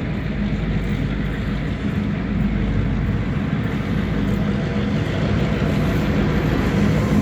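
Freight train going by: a steady diesel-locomotive drone under the rumble of rolling wheels.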